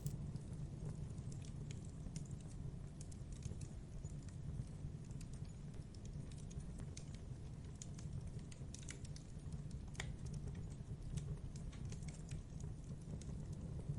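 Campfire wood crackling, with irregular sharp pops over a steady low rumble of the fire; one stronger pop about ten seconds in.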